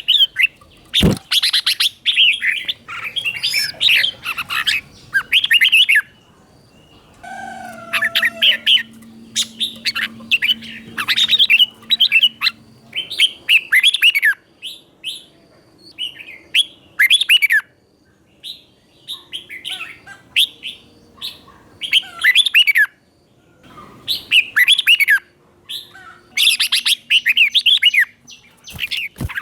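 Red-whiskered bulbul singing: bursts of quick, sweeping whistled notes repeated phrase after phrase, with short pauses between them.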